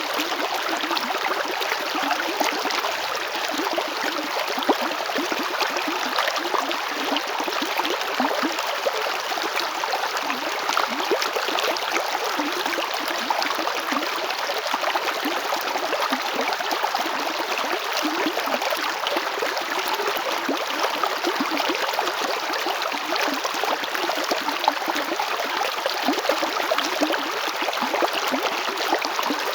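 River water flowing over stones: a steady rush with constant small splashes and gurgles.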